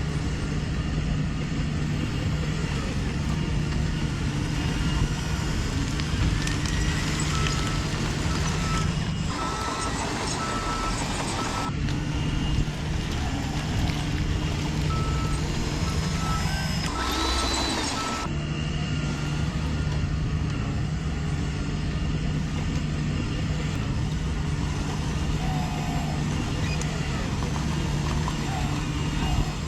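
Radio-controlled construction vehicles running, with a steady low engine hum and motor noise, and a truck's reversing beeps sounding in two short runs.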